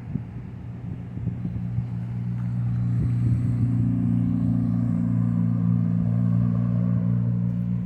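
An engine running steadily, growing louder over the first few seconds and then holding level.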